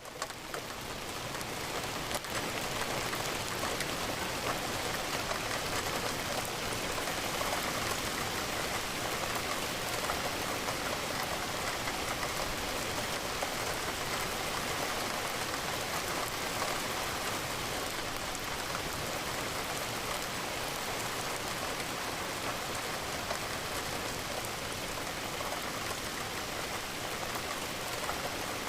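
Steady rain falling, a dense even hiss of drops with no distinct single impacts. The sound briefly dips at the very start and swells back up within a couple of seconds.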